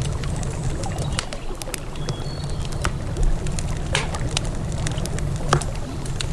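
Wood campfire crackling, with irregular sharp pops scattered through, over a steady low rush of river water.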